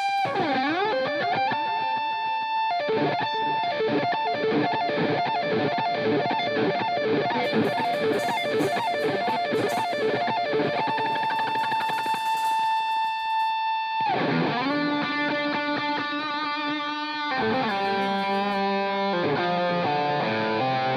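Distorted electric guitar solo: long held notes that dip in pitch and swing back, with quick runs of notes between them. Lower accompanying notes join about three-quarters of the way through.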